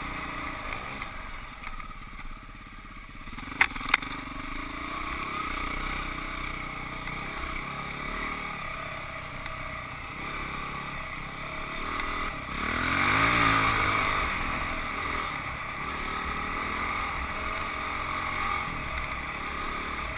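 Husqvarna 449 dirt bike's single-cylinder four-stroke engine running under varying throttle, rising to a rev about thirteen seconds in. Two sharp knocks just before four seconds in.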